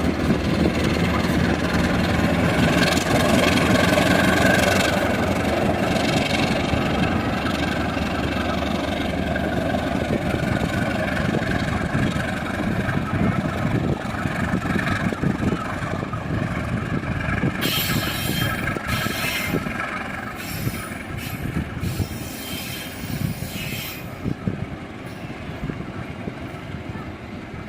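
Diesel-locomotive-hauled train passing on the rails. The engine's steady low hum gives way after about ten seconds to the rumble and clatter of carriages rolling by, which fade toward the end.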